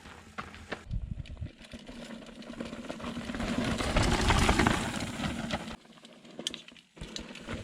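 Mountain bike rolling over a rocky trail: tyre rumble with the rattle and clatter of the bike over chunky rock, loudest about four seconds in, then briefly dropping almost away near the end.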